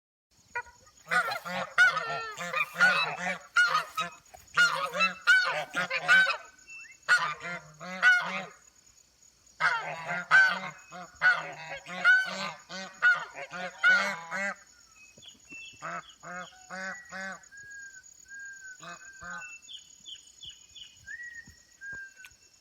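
A group of African geese honking together in repeated loud bouts, then thinning to fewer, quieter calls about two-thirds of the way through.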